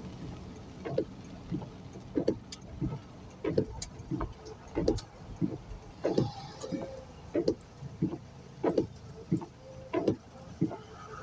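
Car driving with a steady low road rumble, and a regular soft thump about every two-thirds of a second.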